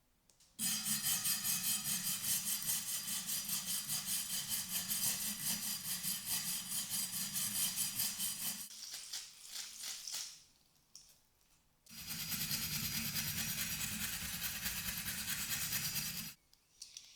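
A power tool running in two long stretches with a quiet gap between, each switched on and off abruptly.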